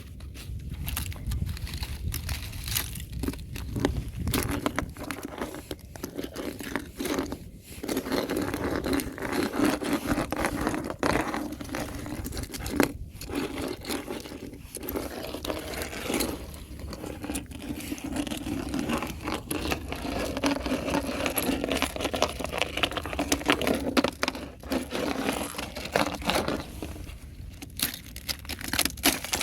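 Fresh thin ice being scraped, crunched and cracked: a dense run of gritty scrapes and small crackles, with a brief pause about halfway through.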